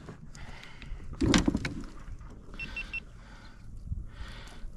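Low handling and water noise around a fishing kayak, with a louder brief rustle about a second in and three quick, high electronic beeps near the middle.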